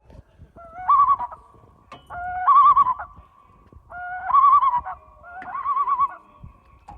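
A bird calling four times in a repeating pattern: each call is a rising two-step note that breaks into a warbling trill.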